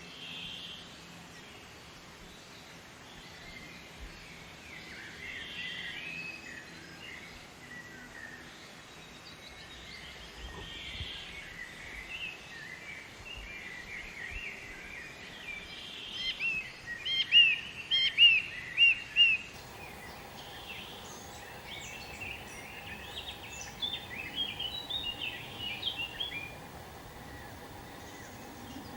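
Songbirds chirping and calling over steady outdoor background noise, with a run of about five loud, sharp chirps just past the middle and another cluster of chirps a few seconds later.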